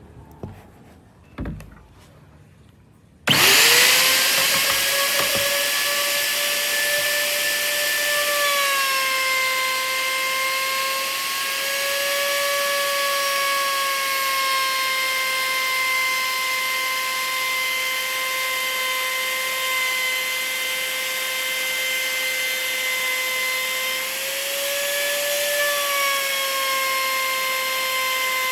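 A few light knocks, then an electric power tool starts about three seconds in and runs steadily with a high whine, its pitch wavering slightly now and then.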